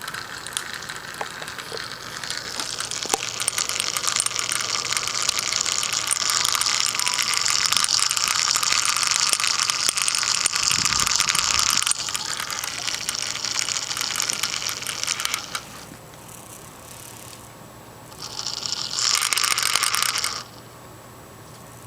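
Cooling fan of a Sony Vaio VGN-CS215J laptop making a loud, harsh, rattling rasp, the sound of a fan on its last legs. The noise builds over the first couple of seconds and holds until about two-thirds of the way through. It then drops away, flares up again briefly, and stops.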